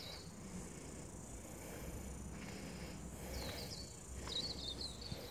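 Faint outdoor garden ambience: a few short, high bird chirps about three seconds in and again around four and a half seconds, over a low steady rumble.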